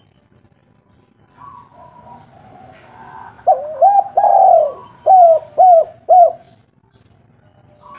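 Spotted dove (tekukur) cooing: a fainter coo first, then a loud phrase of low, hollow coos, one drawn-out note followed by three short coos about half a second apart.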